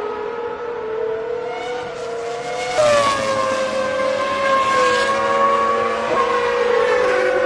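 Honda NSX V6 with individual throttle bodies running hard at high revs. Its pitch climbs slowly, then about three seconds in jumps up and gets louder before slowly easing down again.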